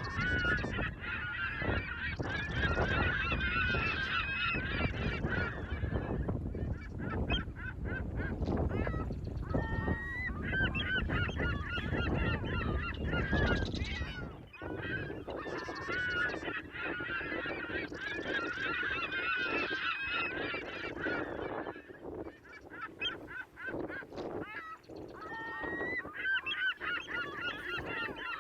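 A flock of birds calling noisily, many voices at once in bouts with short lulls, over a low rumble that drops away about halfway through.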